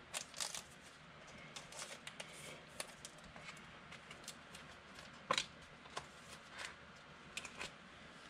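Trading cards being handled: soft rustles and flicks as cards and packs are slid and sorted, with a sharper snap about five seconds in.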